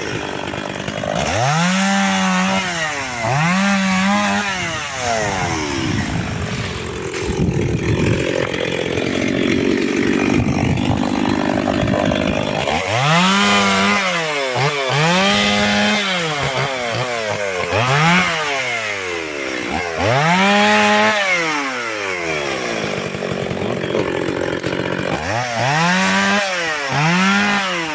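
Chainsaw cutting firewood logs to length: the engine revs up, holds high through a cut and drops back again and again, every two seconds or so, with a longer stretch of lower, labouring running in the middle, where it is under load in the wood.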